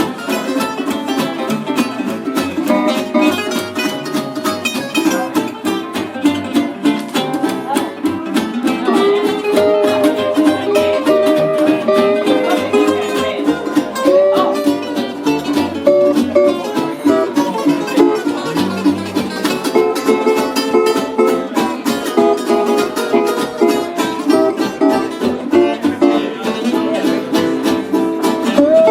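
Live acoustic string band playing an instrumental passage of a Hawaiian song: fast, even strumming with a picked melody line over it through the middle.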